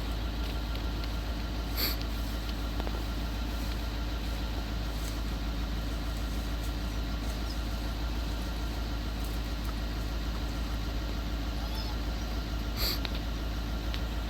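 Car running, a steady low rumble with no change, with a faint click about two seconds in and another near the end.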